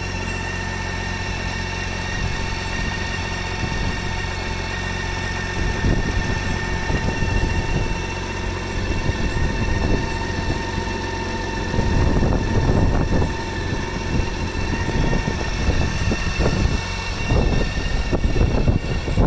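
Motorcycle engine idling steadily, then running louder and unevenly from about six seconds in, with surges in level.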